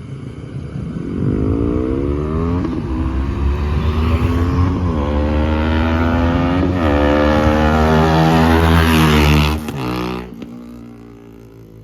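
KTM RC 390 single-cylinder engine with a changed exhaust, accelerating hard through the gears. The pitch climbs and drops back at each of three upshifts, then the throttle closes and the sound falls away sharply near the end.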